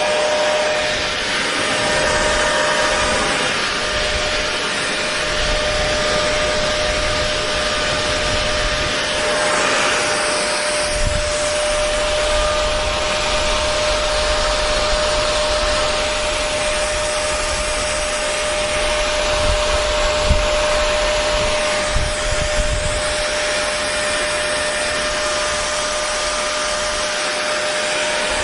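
Electric hair dryer running steadily: a continuous rush of blown air over a constant motor hum.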